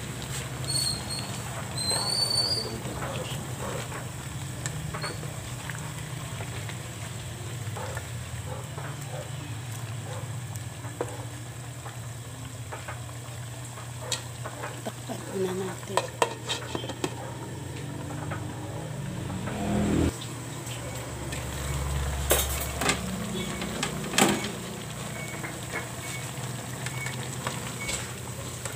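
Chicken pieces sizzling and simmering in soy sauce in a frying pan, with a spatula knocking and scraping against the pan several times as they are stirred. A steady low hum runs underneath.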